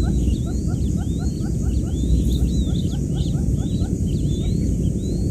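Newly hatched quail chicks peeping, over a steady low hum. A quick run of repeated rising cheeps fades out about two seconds in, while higher twittering chirps go on throughout.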